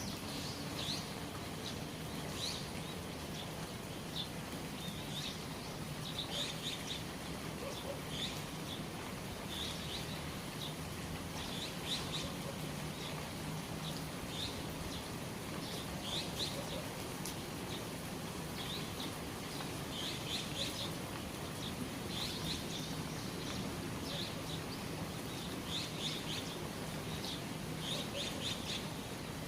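Small birds chirping in short bursts every second or two over the steady hiss of rain falling and dripping from the eaves.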